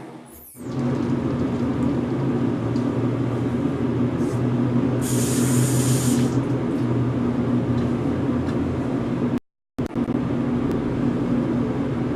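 Hairdryer switched on about half a second in and blowing steadily, its motor humming under the rush of air, with a brief hiss about five seconds in.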